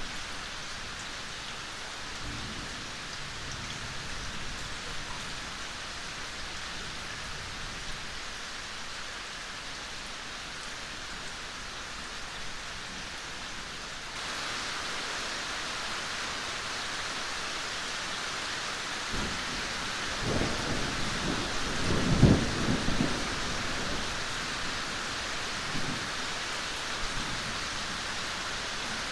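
Steady rain hissing, turning a little louder and brighter about halfway through. Thunder rumbles low a few seconds later, swelling to a peak and fading away over about five seconds.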